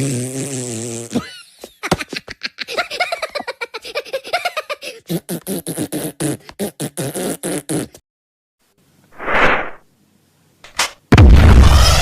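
A string of cartoon sound effects: a buzzing fart-like noise, then several seconds of rapid pulsing, chirping zaps, a short swoosh, and a loud blast starting about a second before the end.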